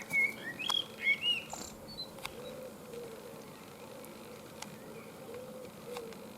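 Birds chirping: a quick run of high, bending chirps in the first second and a half, then fainter, lower calls over a steady background hiss.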